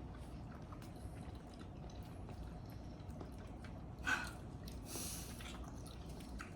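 Faint table-side eating sounds from a marrow bone being worked at: light scattered clicks, with a short wet squelch about four seconds in and a brief hiss just after it.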